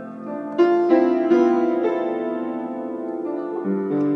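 Keyboard playing slow sustained chords, with a new chord struck about half a second in and another shortly before the end.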